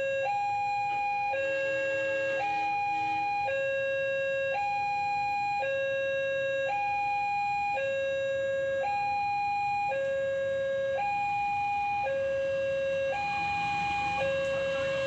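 Electronic railway level-crossing warning alarm sounding a steady two-tone high-low signal, about one high-low cycle a second, warning that a train is approaching. Near the end a rising rumble comes in.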